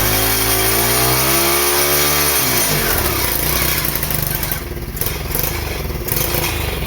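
A 110cc pit bike's single-cylinder engine revved hard for a burnout. Its pitch climbs over about two seconds and then drops away about three seconds in, leaving a steady rushing noise.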